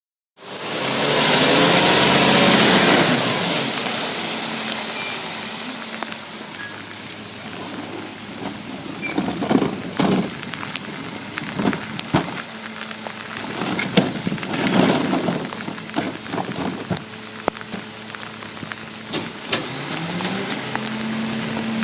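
Garbage truck at work: a loud hiss of air for about three seconds, then its engine running steadily under irregular clanks and knocks.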